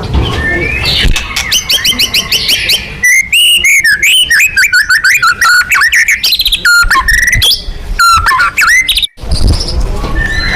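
White-rumped shama (murai batu) singing loudly: a fast, varied song of whistles, rising and falling notes and rapid repeated trills, with a brief break about nine seconds in.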